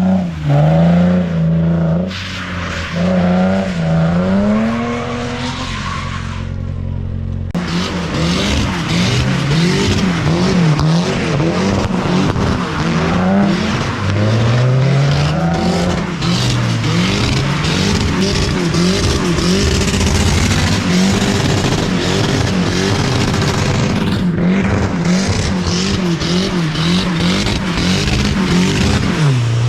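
Car engines revving hard up and down while drifting, over a constant wash of tyre noise. The sound changes abruptly about seven and a half seconds in, as from one car or pass to another.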